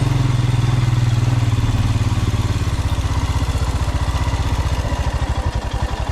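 Royal Enfield Himalayan's single-cylinder engine coming down from a steady run to idle about two seconds in, settling into an even, pulsing idle beat.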